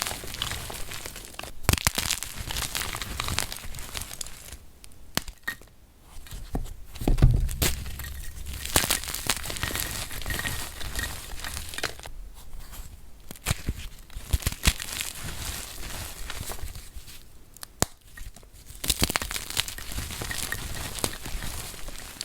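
Blocks of flaky gym chalk being crushed by hand, crumbling with a dense, irregular, sandy crunching and crackling, with a few brief pauses and one heavier thump about seven seconds in.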